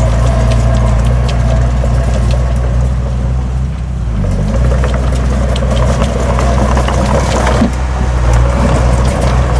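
Heavy diesel engine of earthmoving machinery running steadily under load, easing off briefly about four seconds in and then pulling again, with scattered metallic clanks.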